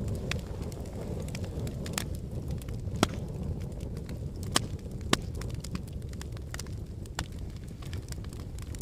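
Volcanic eruption: a steady low rumble with scattered sharp cracks at irregular intervals, the loudest about three and five seconds in.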